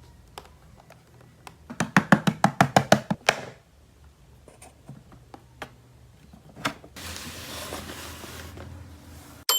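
Hard plastic toy parts clicking and rattling: a quick run of about ten clicks lasting about a second and a half, a few single clicks, then about two seconds of rustling near the end.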